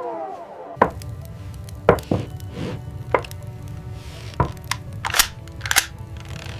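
A wavering howl trails off, then about nine sharp, irregularly spaced chopping knocks sound over a low, steady music bed.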